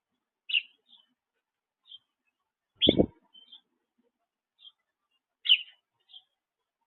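Small birds chirping: short single chirps spaced roughly a second apart, three of them much louder than the rest. About three seconds in, a brief low thump sounds together with one of the loud chirps.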